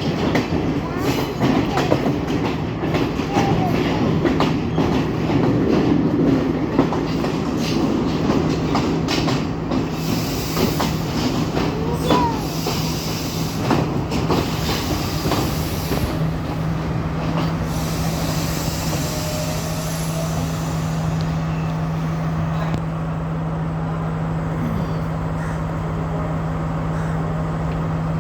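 Passenger train running on the rails: wheels clicking over rail joints over a steady low hum, with the clicking thinning out in the second half.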